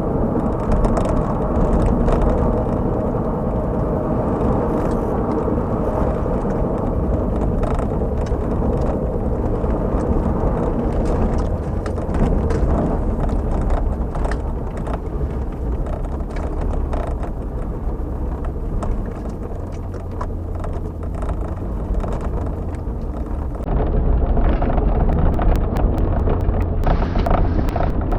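VW Jetta's 2.0-litre four-cylinder engine running under way, with steady road and tyre noise and frequent short clicks and crackles. It gets louder about 24 seconds in.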